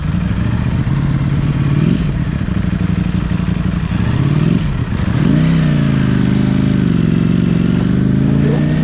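Ducati motorcycle engine accelerating through the gears: the pitch climbs and drops sharply at two upshifts, about two seconds and four and a half seconds in, then holds fairly steady while cruising, with wind noise over it.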